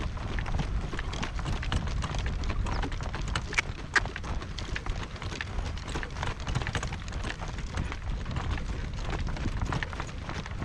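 A harness horse's hoofbeats: a steady run of clip-clop hoof strikes, over a steady low rumble.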